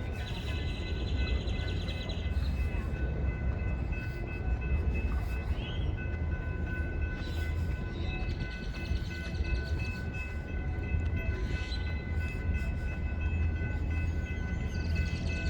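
A train close by: a steady low rumble with several steady high-pitched tones held above it.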